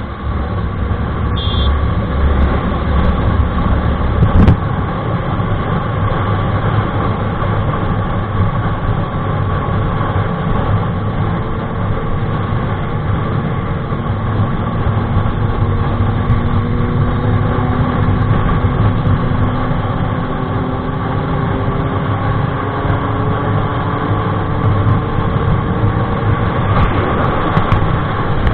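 Triumph Daytona 675's three-cylinder engine running steadily through an SC-Project aftermarket exhaust, its pitch creeping slowly upward in the second half. A single sharp crack about four and a half seconds in.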